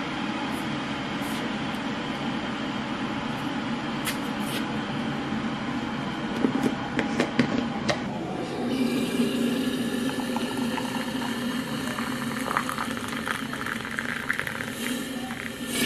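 Steady rush of running water with scattered small clinks; about eight and a half seconds in it grows louder and brighter.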